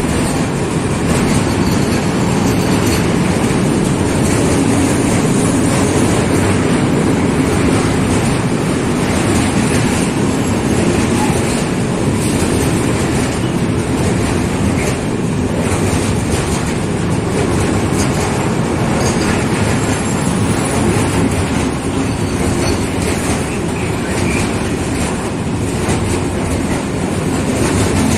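A freight train of open coal wagons, hauled by an ET41 electric locomotive, rolling steadily past, its wagon wheels running over the track.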